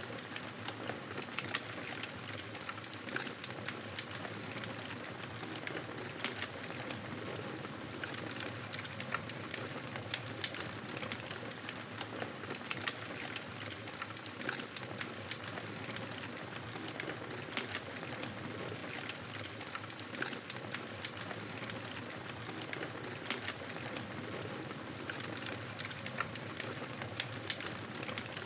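Wood fire crackling in a fireplace: a steady hiss with frequent, irregular pops and snaps.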